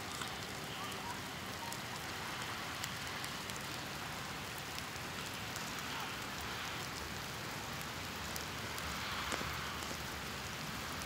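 Steady rain falling, with scattered single drops ticking sharply here and there.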